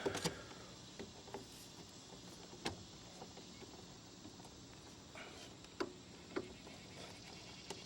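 A few light, scattered clicks and knocks of a twist-lock power plug and its cable being handled and fitted into a generator's 240-volt outlet, the sharpest about a third of the way in.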